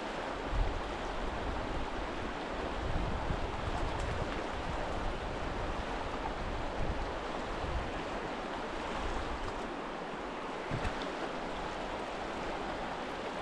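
Steady rush of the Little Truckee River's current, with a few brief low thumps in the first few seconds.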